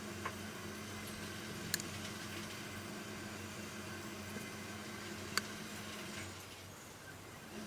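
Steady low hum and hiss of background noise, with three short, sharp clicks: one just after the start, one nearly two seconds in and one about five and a half seconds in. The hiss drops away near the end.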